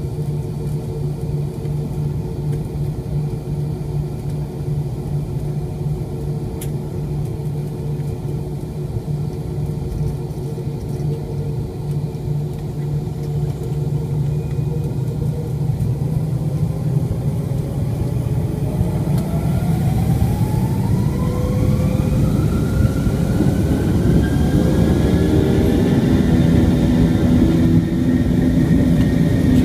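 Airliner jet engines with a steady low rumble at low power. From about halfway in, a whine rises steadily in pitch and the sound grows louder as the engines spool up to takeoff thrust.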